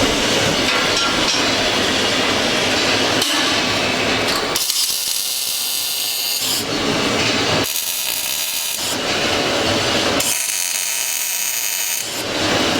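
Metalworking power tools running in a welding shop. Harsh full noise switches several times to a thin high hiss with a faint whine, for a second or two each time.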